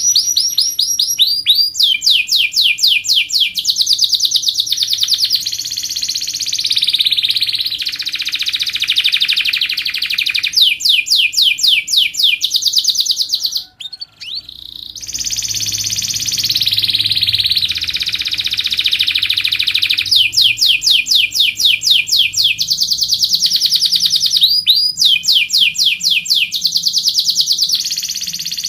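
Domestic canary singing a long, loud song of rapid rolling trills, one fast series of repeated notes after another, with a brief break about halfway through.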